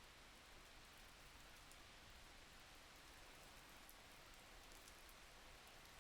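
Faint, steady rain: an even hiss of falling rain with a few light drop ticks.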